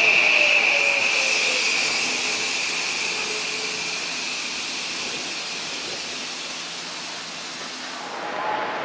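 Odakyu 4000 series electric train running, a high whine and the rumble of the cars fading away over several seconds, with a lower tone sliding down in pitch in the first second or so.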